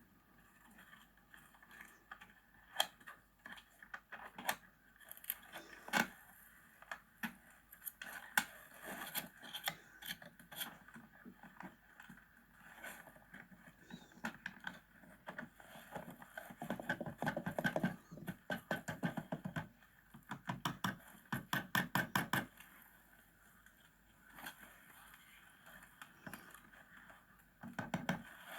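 Scattered knocks, clicks and scraping from hands-on work in a small room, with several runs of quick repeated strokes in the second half.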